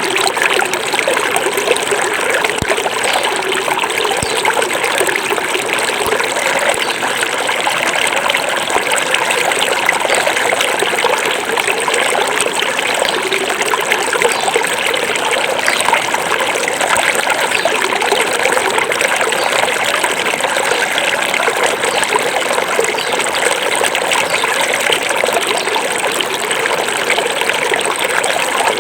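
Small forest river flowing over stones: a steady, even rush and trickle of water.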